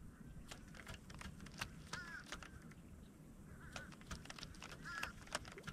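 Faint short, wavering bird calls, three or four of them a second or two apart, over scattered sharp clicks.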